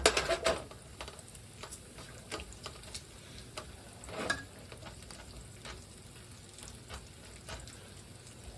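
Food frying in a pan, a steady quiet sizzle, with a utensil clattering against the pan at the start and a few light knocks later.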